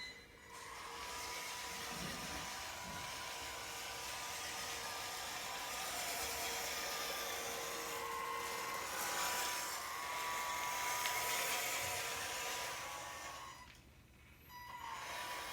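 The small electric motor and gearbox of a WPL 6x6 RC truck running with a steady whine. It stops briefly just after the start and again about fourteen seconds in, then starts up again.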